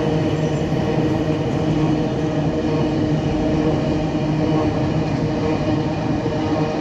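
Freight train's diesel locomotive running steadily, a droning engine note with several even overtones over continuous rumbling noise.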